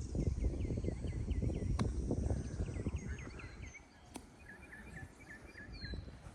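Birds singing in quick repeated runs of short chirps, with a few falling whistles near the end, over a low rumbling noise that is loudest in the first few seconds and then dies down.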